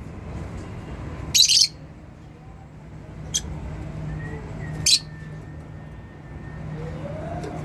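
Lovebirds giving three sharp, high-pitched chirps, the first slightly longer, the next two short and about a second and a half apart, over a steady low hum.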